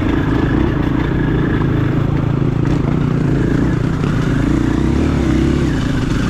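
KTM 500 EXC-F's single-cylinder four-stroke engine running at low revs, its pitch wavering up and down a little with the throttle.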